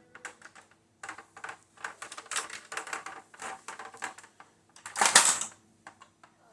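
Hard plastic parts of a toy jet clicking and knocking in quick, irregular taps as it is handled and wiped down, with one louder clatter about five seconds in.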